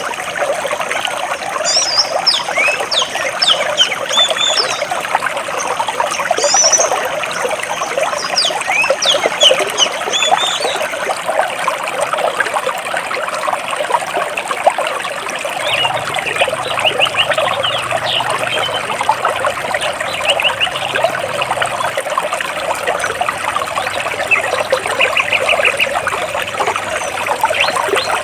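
Stream water trickling and splashing steadily between large rocks, with birds chirping over it. The chirps are thickest in the first half, and a short rapid trill comes near the end.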